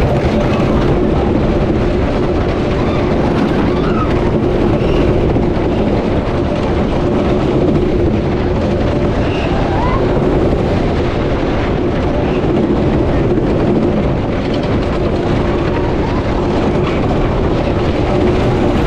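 White Lightning, a Great Coasters International wooden roller coaster, running along its track as heard from the back seat: a steady, loud rumble of the train on the wooden track that does not let up.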